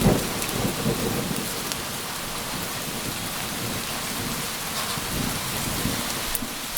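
Steady rain pouring down, with a low rumble of thunder that is strongest at the start and then dies down.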